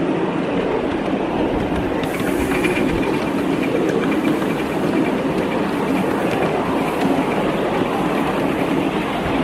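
5-inch gauge miniature live-steam model of the LMS Coronation Class locomotive Duchess of Hamilton running along the track: a steady rumble with faint clicks of wheels on the rails.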